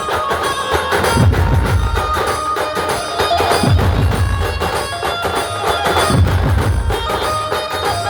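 Dhumal band playing loud traditional procession music: dense drumming with deep bass hits every couple of seconds under a sustained melody line.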